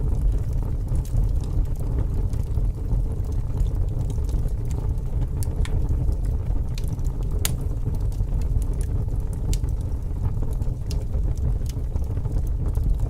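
Fire crackling: a steady low rumble with scattered sharp pops and snaps at irregular intervals.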